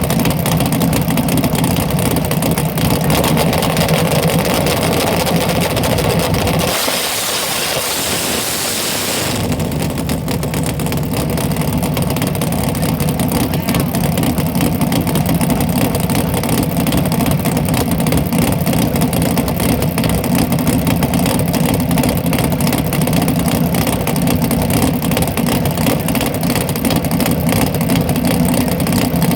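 Drag car engine running loud and steady at idle, with a fast, uneven pulsing rumble. About seven seconds in the rumble drops out for a couple of seconds under a hiss, then returns.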